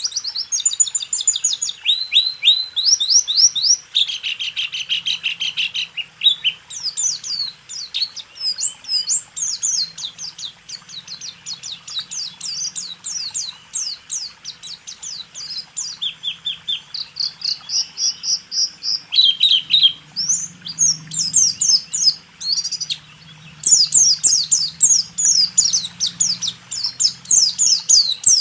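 Pleci (white-eye) singing a fast, rolling song of high trills and rapid chirps, in the 'rool tembak' style, with hardly a break.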